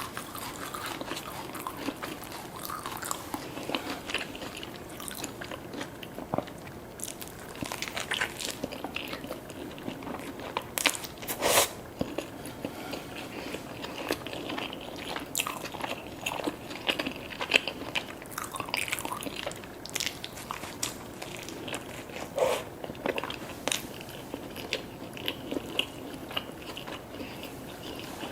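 Close-up eating sounds: biting into and chewing crunchy food, with crisp crunches and wet mouth clicks at an uneven pace and a couple of louder crunches around the middle.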